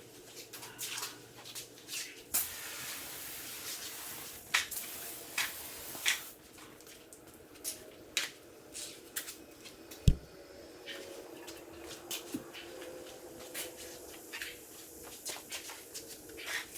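Car detailing work sounds: a run of small clicks and taps from handling tools and surfaces, a stretch of hiss lasting about four seconds near the start, and one sharp knock about ten seconds in.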